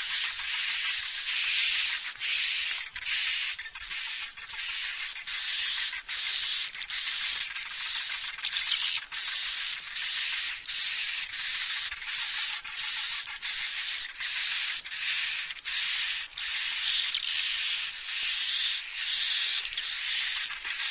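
Edible-nest swiftlet lure recording: dense, high-pitched twittering swiftlet calls in repeated pulses, a little more than one a second, over a steady high whine. It is the mixed call-and-roost sound played in swiftlet houses to draw and settle the birds.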